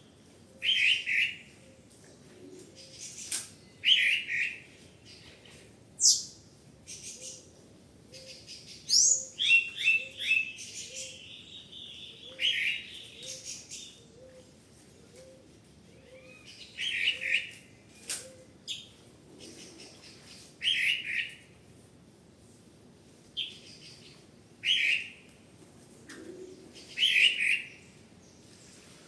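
Birds chirping: one bird gives a short call over and over, every two to four seconds, and higher, sharper chirps come in between. A busier run of calls comes about a third of the way in.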